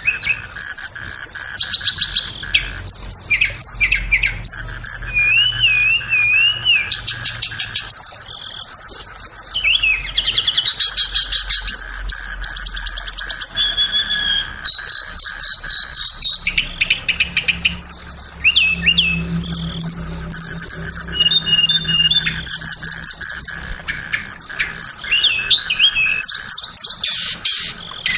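Tledekan songbird song: a continuous run of fast, high-pitched trills, rapid repeated chips and short warbling whistled phrases with no real pauses. It is a masteran/pancingan recording, played to caged tledekan to teach them song or get them singing.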